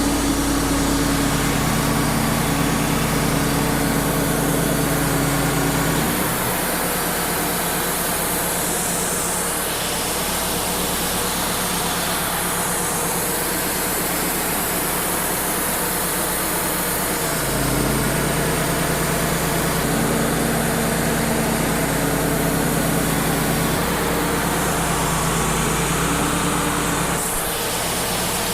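Wood-Mizer LT35 hydraulic portable sawmill running steadily, its engine and bandsaw working through a red oak log. The sound shifts about six seconds in, when the steady low hum gives way to a noisier sound, and shifts back about eleven seconds later.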